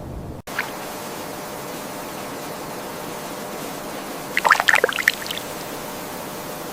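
Steady rush of running water, like a stream. About four and a half seconds in, a brief cluster of sharp, high sounds stands out above it.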